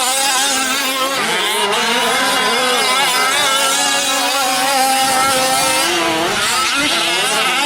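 Several 1/5-scale gas RC trucks' small two-stroke engines running together on the track, each pitch rising and falling as the trucks accelerate and back off.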